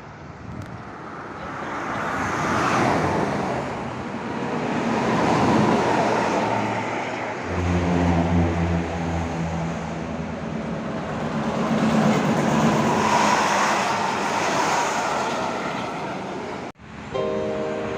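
Road traffic passing with swells of tyre and engine noise, heavy vehicles including buses going by, and a steady low engine drone from about halfway. Near the end the sound cuts out suddenly and steady musical tones begin.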